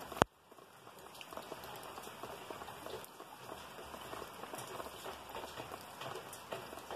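A sharp click right at the start, then light rain falling steadily, an even patter of many small drops on plants and soil.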